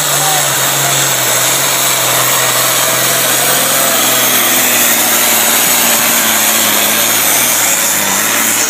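Case IH pulling tractor's engine running flat out under heavy load during a pull, a loud steady blare of exhaust and engine noise with a low tone that sags a little near the end.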